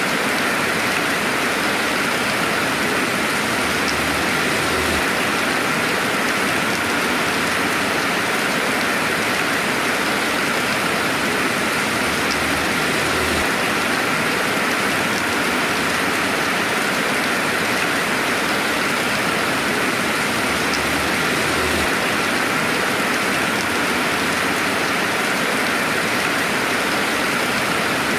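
Steady, even rainfall ambience with no thunder: a continuous hiss of dense rain falling on surfaces.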